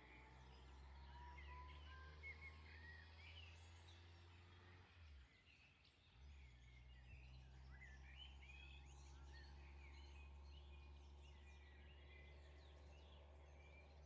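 Faint birds chirping, many short calls, over a steady low hum that drops out briefly about five seconds in.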